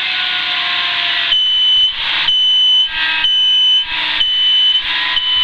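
Helicopter cockpit warning horn beeping through the headset intercom: a high, steady tone switching on and off about once a second, starting a little over a second in, over the Schweizer 300CBi's engine and rotor noise. It sounds just after touchdown and is normal.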